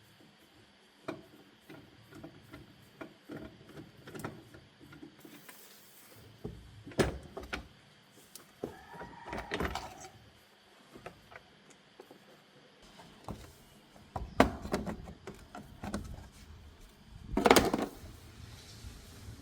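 Clicks and knocks of car parts being handled during disassembly, with a short squeak about nine seconds in and a heavier thump near the end.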